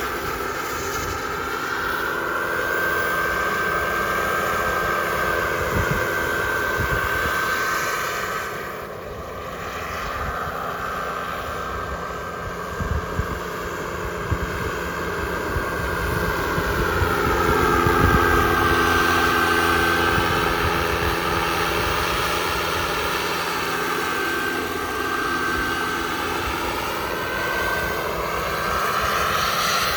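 Turbine engine of a radio-controlled model jet running: a steady high whine over rushing jet noise that swells and fades as the aircraft moves past, dipping about nine seconds in and loudest about eighteen seconds in.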